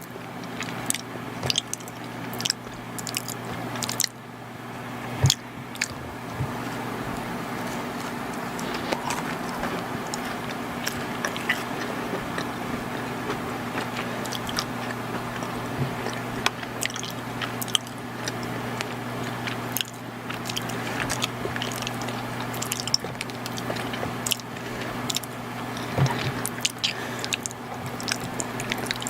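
Close-miked chewing of soft, chewy chocolate crinkle cookies and brownies, with many small sticky mouth clicks, over a steady low hum.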